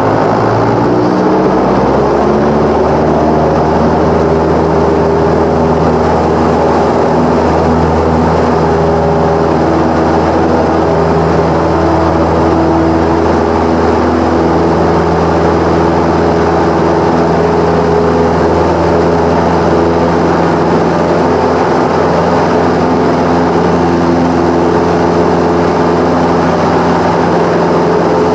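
Cessna 172's piston engine and propeller running, the pitch climbing over the first two seconds as power comes up, then holding steady.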